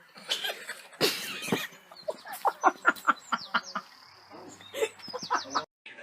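An animal calling in a quick run of short, sliding-pitch cries, several a second, after a noisy scuffle about a second in. It cuts off abruptly near the end.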